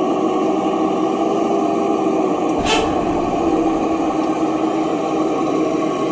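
A machine running steadily with a low hum, broken about two and a half seconds in by one short, sharp hiss.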